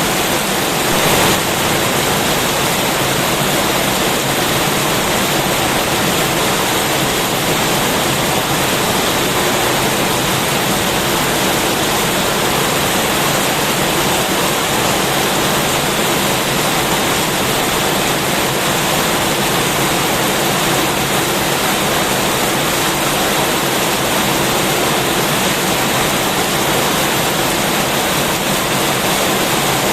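Heavy rain pouring down steadily in a dense, even hiss, with a brief louder patch about a second in.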